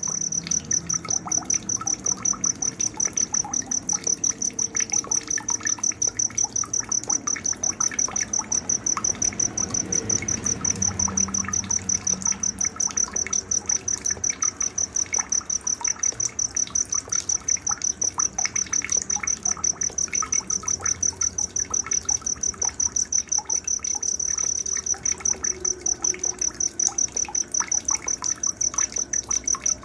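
A cricket chirping steadily in an even, rapid rhythm of about four high-pitched pulses a second, with faint scattered bird calls behind it, as night nature ambience.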